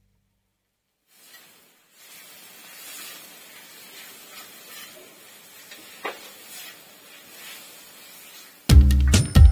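Masala sizzling in hot oil in a large iron pan as a metal spatula stirs it, a steady hiss with occasional small scrapes and ticks. Near the end, loud music with a heavy beat comes in over it.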